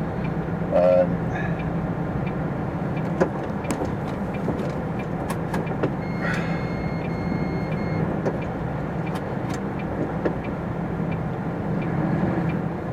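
Heavy diesel engine of an articulated lorry running steadily, with scattered light clicks. A steady electronic beep sounds for about two seconds, starting about six seconds in.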